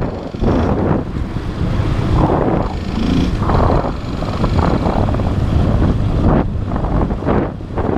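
Motorcycle engine running while riding, with wind buffeting the camera microphone in uneven gusts.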